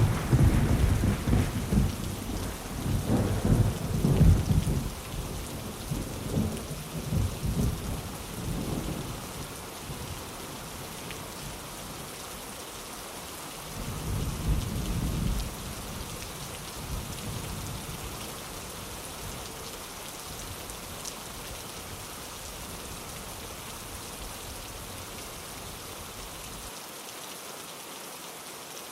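Steady rain with thunder. A loud clap of thunder breaks in suddenly at the start and rolls on for about nine seconds, a second, shorter rumble comes about halfway through, and a low rumble under the rain dies away near the end.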